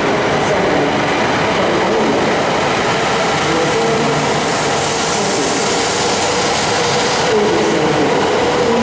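Tohoku/Joetsu Shinkansen train running through the underground platforms of a station: a steady loud rush of train noise with a faint wavering tone.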